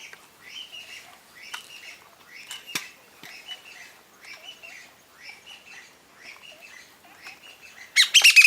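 A bird gives a short call over and over, about twice a second. Near the end, loud, harsh chattering calls from birds break in.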